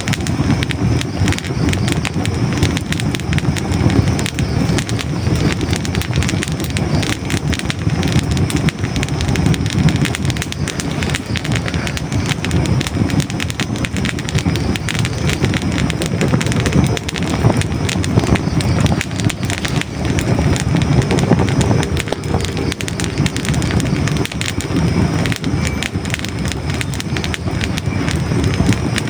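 Hardwood logs burning in a fireplace: a dense, constant crackling with scattered pops over a steady low rush of flame.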